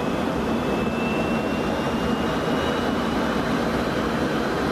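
Jet aircraft engine running steadily, with a thin high whine that slowly rises in pitch.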